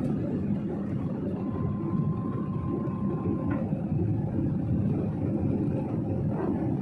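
Steady low rumble of a passenger jet's engines heard inside the cabin, with a faint steady tone for a couple of seconds in the middle.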